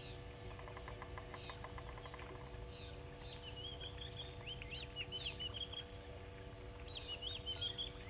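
Wild birds calling: a fast run of ticks, about ten a second, for a second or two. From about three seconds in come bursts of high, quick twittering chirps, loudest around five seconds and again near the end.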